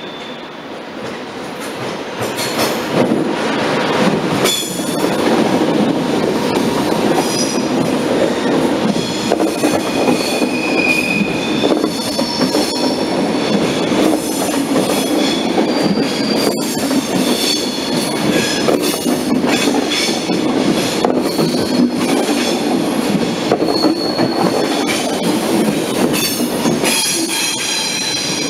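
Double-deck TGV high-speed train rolling slowly past over station points and curves, its wheels squealing in short high tones and clacking over the switches. The noise builds over the first few seconds and stays steady as the cars go by.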